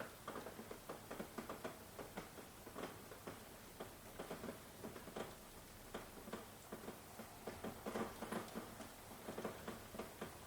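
Rain pattering: many irregular, close drops tapping over a soft steady hiss of rainfall.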